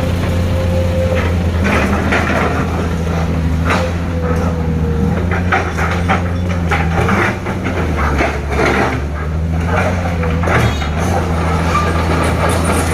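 Heavy dump truck's diesel engine running steadily at low revs, with frequent clanks and rattles from the truck as it moves over the rough road.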